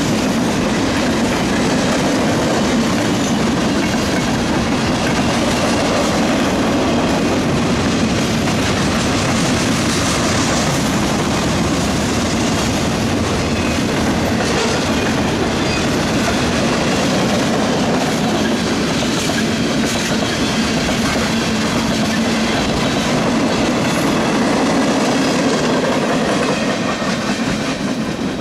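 Freight cars of a mixed freight train rolling past: a steady, loud rumble of steel wheels on the rails, easing off slightly near the end as the last cars move away.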